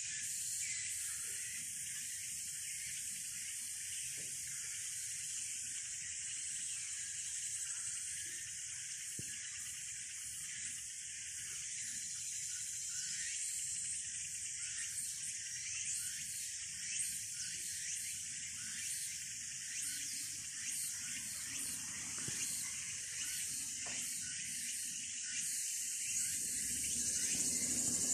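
Steady high-pitched insect chorus, an even shrill hiss that does not change.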